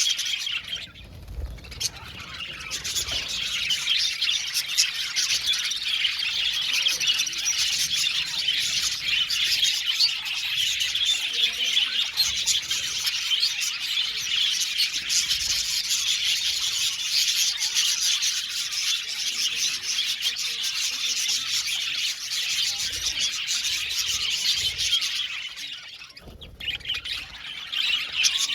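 A flock of budgerigars chirping and chattering together in a dense, continuous warble. It eases off briefly about a second in and again near the end.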